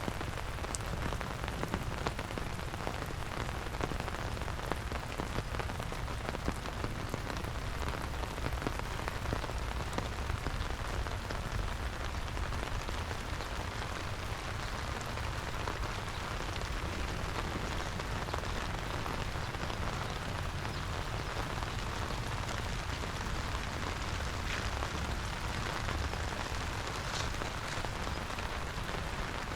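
Steady rain falling on wet ground, with many single drops ticking sharply, over a low steady rumble.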